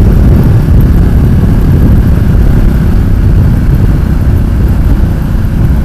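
Ducati Multistrada 1200 S ridden slowly in traffic: a steady low rumble of engine and wind on the rider's microphone.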